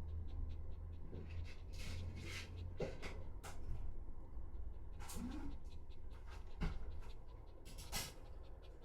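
A Shiba Inu dog panting, with several louder, breathy bursts of breath at irregular intervals.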